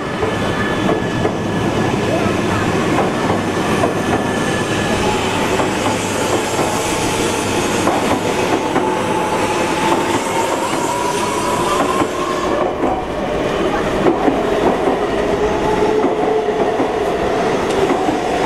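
Shinkansen train moving along the platform: a steady rumble of wheels on rail, with a faint whining tone that slowly rises in pitch through the first half.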